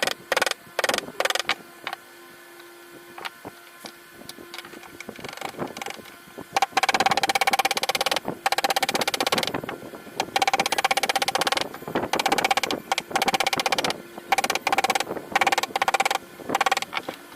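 Carving chisel driven with a mallet into sheesham wood: a few separate blows at first, then from about halfway, bursts of rapid tapping about a second long each, with a light ring.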